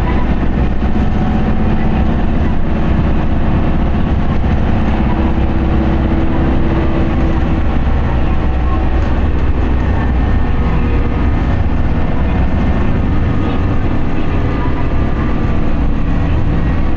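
Interior running sound of an Isuzu Erga QDG-LV290N1 city bus: its four-cylinder turbo-diesel engine pulling steadily while under way, with road noise. The engine note holds fairly even rather than rising or falling.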